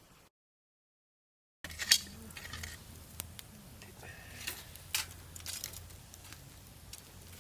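Brief silence, then a run of light, sharp metallic clinks and clicks from gear being handled, over a low steady hum.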